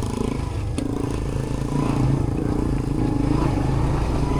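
Motorbike engine running steadily with a low hum.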